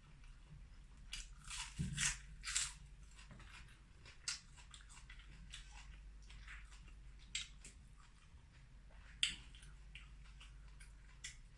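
Close-up chewing and lip-smacking of someone eating sticky rice and grilled pork belly, heard as irregular wet clicks, with a quick cluster of louder smacks about two seconds in.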